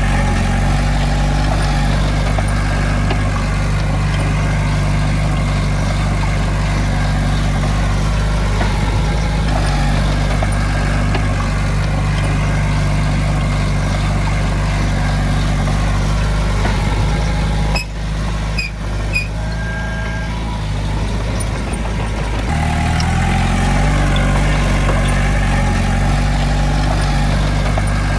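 Heavy diesel engine of earthmoving equipment running steadily. Past the middle it drops off briefly with a few clanks, then picks back up with a changed pitch.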